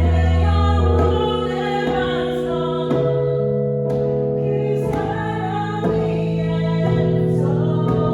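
Korean praise and worship song: a singer with keyboard accompaniment, sustained chords over a low bass changing about every second.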